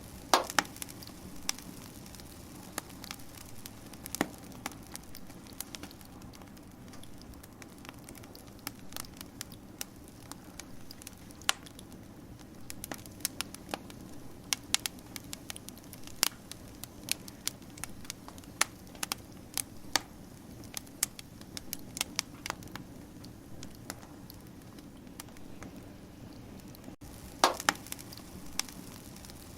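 Wood fire burning: a steady low rumble under irregular sharp crackles and pops. The pops are thickest through the middle, with louder ones just after the start and near the end.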